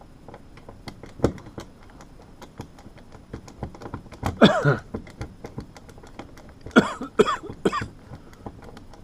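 A man coughing, once about four and a half seconds in and then three times in quick succession, from a cold coming on. Faint small clicks and taps of handling a floor register run underneath.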